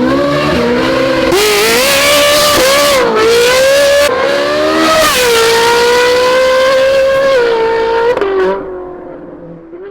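Ferrari 458's flat-plane V8 through a titanium exhaust with free-flow headers and bypass pipes, running loud at high revs, its pitch rising and then stepping down sharply a few times. The note fades away over the last second and a half.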